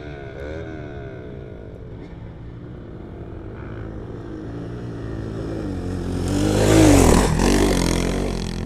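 Dirt bike engine revving up and down in short blips, then a bike coming by close, loudest about seven seconds in, its note dropping in pitch as it passes with a rush of wind and tyre noise.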